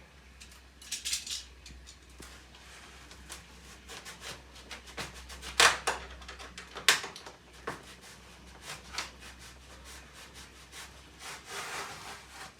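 Handling of cardboard and plastic building pieces: scattered rubbing and scraping with small clicks, and two sharp knocks about six and seven seconds in, over a steady low hum.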